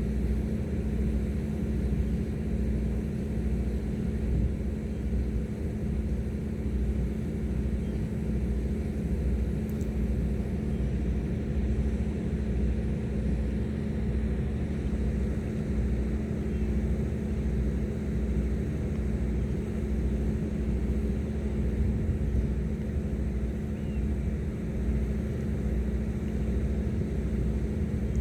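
Engines of the high-speed passenger boat Hayabusa No. 3 droning steadily, with a steady hum over a low, even throb.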